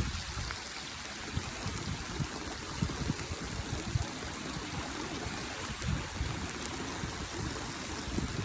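Rushing floodwater: a steady noise of fast-flowing water, with irregular low thuds.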